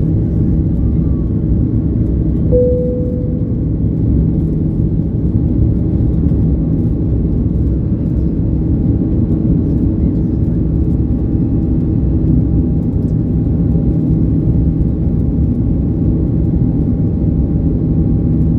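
Steady loud cabin noise of an Airbus A330neo, its Rolls-Royce Trent 7000 engines and the airflow heard as an even rumble with a few held hums. A single short tone sounds about two and a half seconds in.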